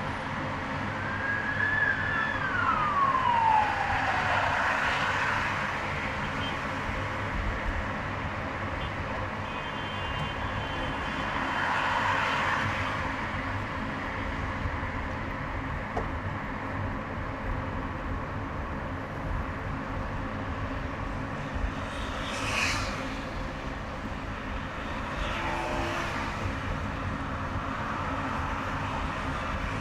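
Steady highway traffic noise from a car driving in traffic. A siren tone is held briefly and then falls in pitch from about two to five seconds in. Several short swells of passing-vehicle noise come later.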